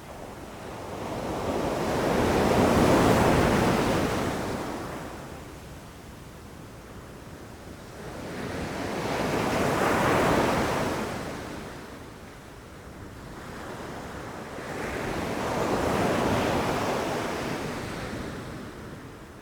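Ocean waves rushing in, three slow swells that rise and fade about every six to seven seconds.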